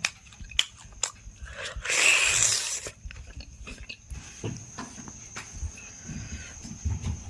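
Eating sounds of a mutton curry meal: biting and chewing meat, with small sharp clicks. About two seconds in there is a louder noisy rush lasting nearly a second.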